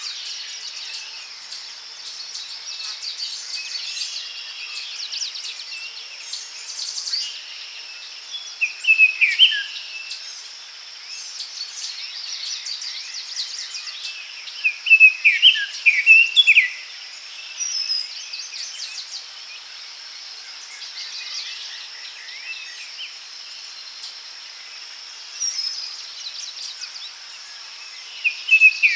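Daytime forest ambience: a steady high insect-like drone with several birds singing and chirping over it, louder bursts of song about nine seconds in, again around fifteen to sixteen seconds, and near the end.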